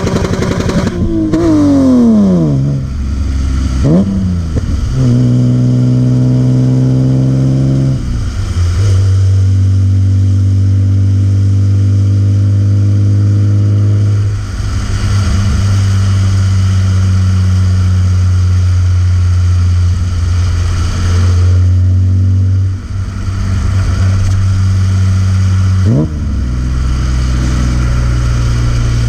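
BMW E36 M3's S50B30 straight-six engine and exhaust. The revs rise and fall in the first couple of seconds and blip briefly, then the engine holds a steady, low-moderate engine speed for about twenty seconds. A quick rev blip comes near the end.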